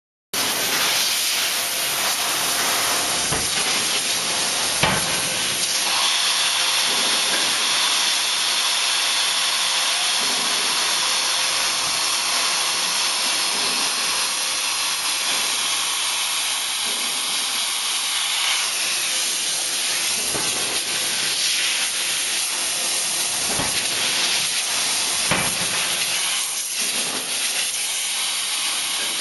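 Steady loud hiss around a 63 kJ CNC hydraulic die forging hammer at work, with a few faint knocks, the sharpest about five seconds in.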